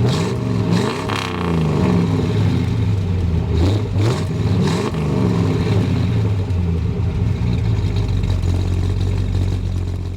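1967 Chevrolet Impala SS's 396 big-block V8 revving, its pitch rising and falling a few times, then running steadily before fading out at the end.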